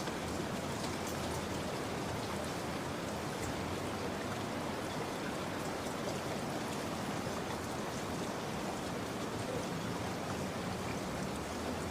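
Steady rain: an even, unbroken hiss of rainfall with small drops ticking through it.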